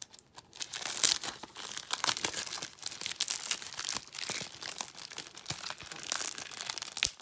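Plastic shrink-wrap crinkling and tearing as it is peeled off a Blu-ray case, a dense crackle of small clicks, with one sharp knock near the end.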